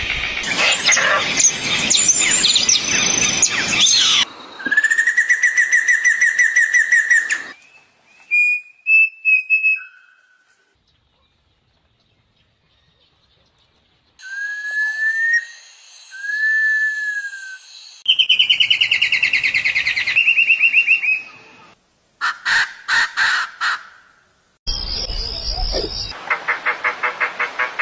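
A string of different birds' calls and songs cut one after another: a dense chorus of chirps, then fast trills, short clear whistles and two arching whistled notes, with a few seconds of near silence around the middle and rapid repeated notes near the end.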